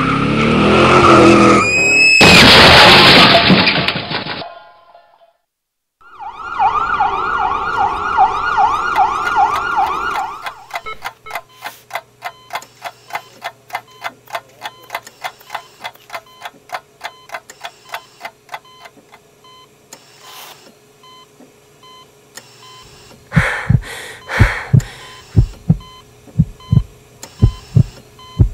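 A designed sound sequence: tyres skidding and a loud crash, a second or so of silence, then a wailing siren. The siren gives way to steady, regular beeping over a low hum, and in the last few seconds slow, deep heartbeat thumps come in.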